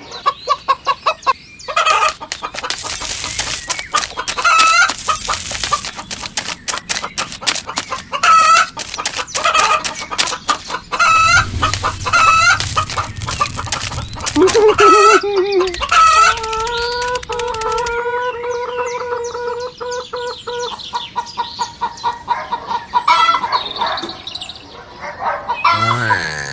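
Chickens clucking over and over, with a rooster crowing one long call about sixteen seconds in.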